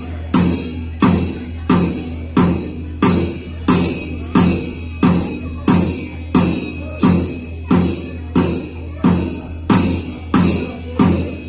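Ritual drum beaten in a steady, even beat, about three strokes every two seconds, each stroke with a bright ringing on top, keeping time for a ritual bird dance.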